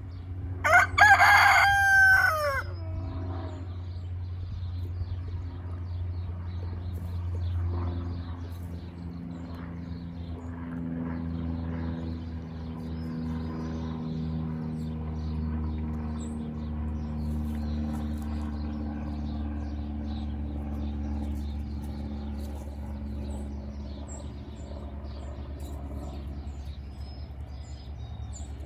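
A rooster crows once, loud and close, about a second in. Afterwards a steady low drone with slowly falling tones runs under the rest, with faint scattered chicken sounds.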